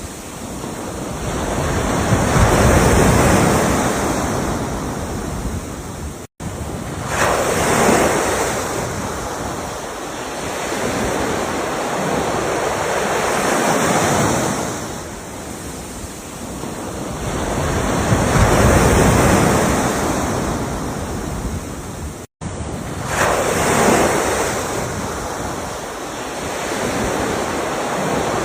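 Ocean surf: waves breaking and washing in, swelling and fading about every five seconds. The sound cuts out for an instant twice, once about six seconds in and again near the end.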